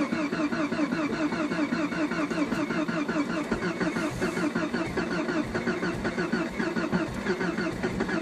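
Starter motor cranking the cammed Lada 2110's engine in −30 °C cold, an even repeating chug of compression strokes without the engine catching.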